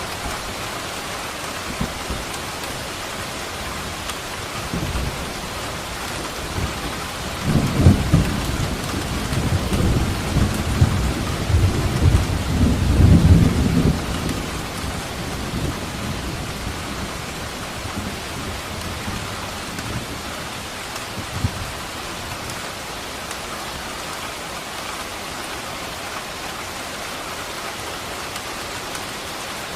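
Steady heavy rain, with a deep roll of thunder that builds about a quarter of the way in, rumbles for around six seconds, then fades back into the rain; a faint further rumble comes about two-thirds through.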